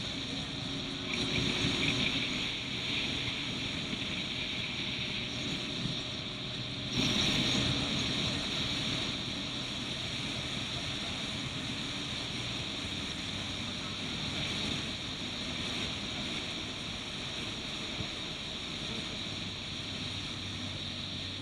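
Turbocharged Suzuki Swift race car's engine running at a steady speed, with wind noise.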